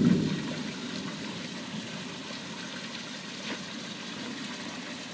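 Steady rain falling, with a low rumble at the very start that fades within about half a second.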